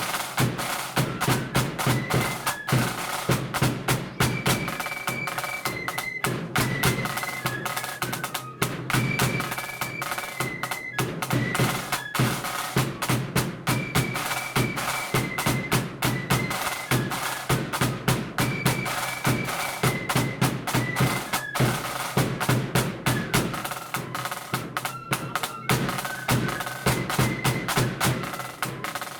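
Marching flute band playing a tune: flutes carry a high melody over rapid snare drumming and steady bass drum beats.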